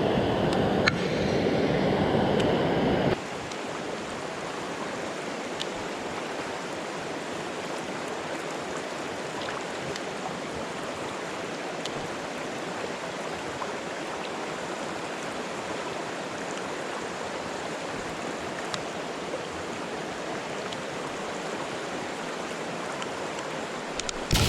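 Mountain-stream water rushing. For about the first three seconds it is louder and deeper, then it cuts suddenly to a steadier, even rush, with a few faint ticks.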